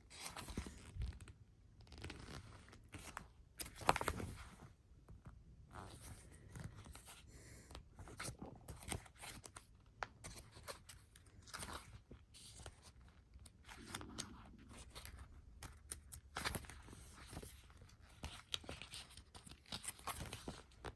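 Paper pages of a sticker book being handled and turned: irregular rustles and crackles of the sheets, loudest about four seconds in.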